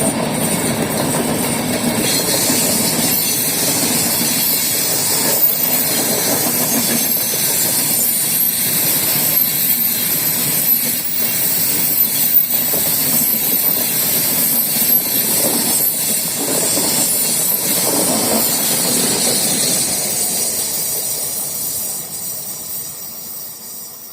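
A train passing on the rails: a steady, loud rolling noise with a high hiss and occasional clicks from the wheels, fading away over the last few seconds.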